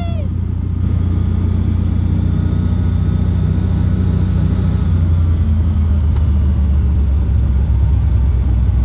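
Tractor engine running steadily with a low hum, its pitch shifting slightly about five seconds in.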